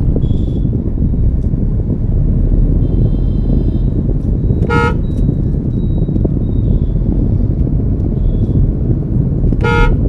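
Steady low road and engine rumble of a car driving in traffic, with two short vehicle-horn honks about five seconds apart.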